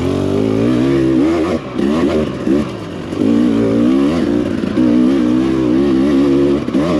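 Two-stroke Husqvarna dirt bike engine with throttle-body injection, running on the trail. The revs rise and fall for the first few seconds, then hold fairly steady before dropping near the end.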